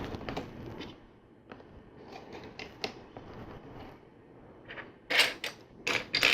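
Loose plastic LEGO pieces clicking and rattling as hands sort through piles of bricks: scattered light clicks, then a louder clatter of rummaging about five seconds in.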